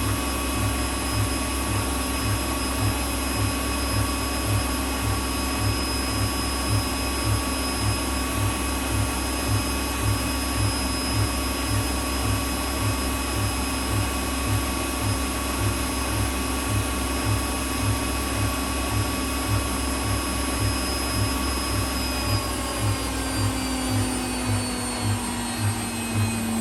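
Whirlpool WWDC 7440 washing machine spinning at its top speed of 1,400 rpm, the carbon-brush motor whining steadily over a regular low pulse from the drum. About 22 seconds in, the whine starts to fall as the spin begins to wind down.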